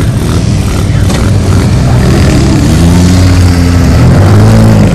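Small off-road race vehicle engines running loud and revving, their pitch rising and falling several times, loudest near the end.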